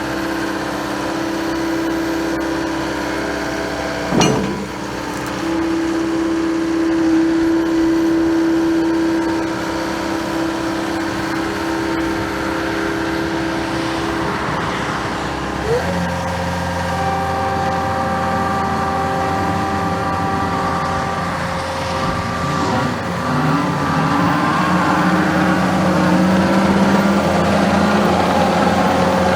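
The turbocharged four-cylinder Yanmar diesel of a John Deere 331G compact track loader runs steadily, then steps up in engine speed about 16 seconds in. After that it keeps running at the higher speed, with shifting whines over it.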